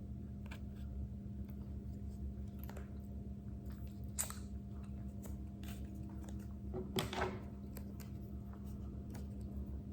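A person chewing and biting food, with scattered small mouth clicks and two louder, sharper bites at about four and seven seconds, over a steady low hum.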